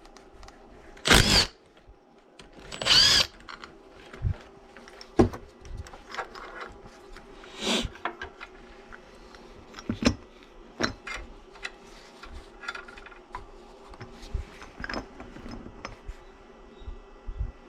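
Two short bursts from a power tool, about a second and three seconds in, each with a wavering whine. Scattered clicks and knocks follow, like tools and metal parts being handled.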